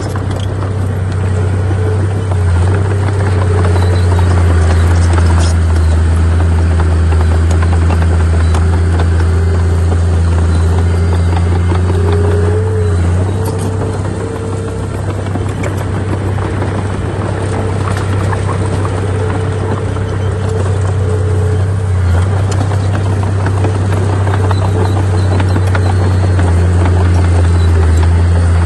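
Heavy diesel earthmoving machinery running steadily under load: a loud, constant low engine drone with a faint wavering whine above it and a dense rattle of small clicks throughout.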